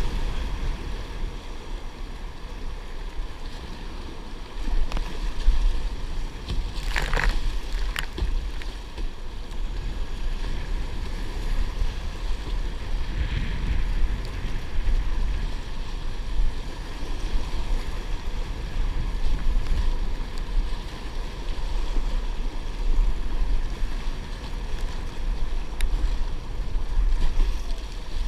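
Wind buffeting the microphone with a steady low rumble, over water lapping around a kayak. A brief sharper sound comes about seven seconds in.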